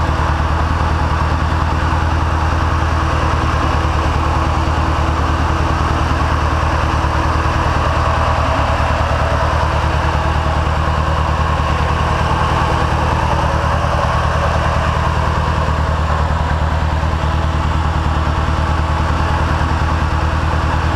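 Turbocharged Nissan 240SX's KA24DE inline-four idling steadily while it burns off a Sea Foam treatment.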